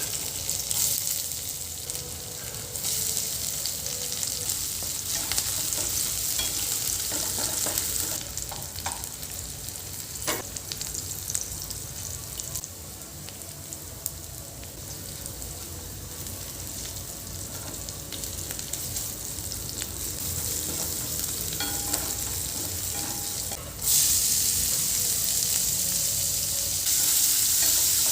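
Food sizzling as it fries in hot oil in a pan, with occasional clicks and scrapes of a spoon stirring. The sizzle turns louder about 24 seconds in.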